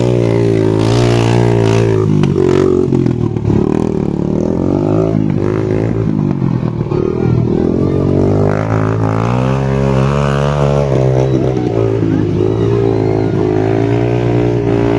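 Motocross dirt bike engines revving, their pitch rising and falling with the throttle over a steady engine drone.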